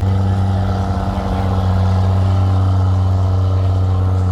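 A vehicle engine running at a steady speed, giving a constant, even hum that does not rise or fall.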